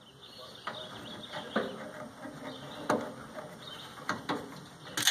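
Irregular clicks and knocks of tools and sheet-metal parts being handled while a microwave oven is taken apart, about seven separate strikes over a steady faint background.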